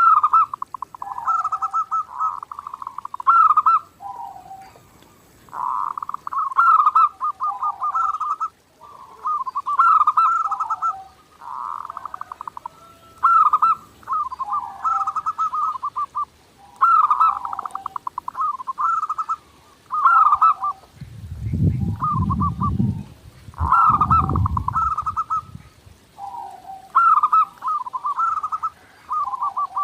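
Zebra dove (perkutut) singing: phrase after phrase of quick, stuttering coos, each a second or two long with short gaps between. Two brief low rumbles sound about two-thirds of the way through.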